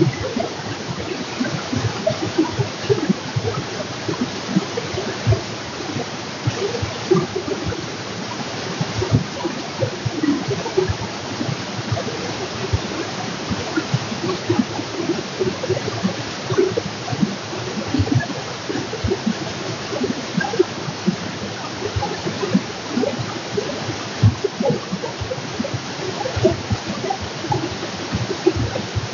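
Stream water running steadily, with a constant rush and many small, quick splashes.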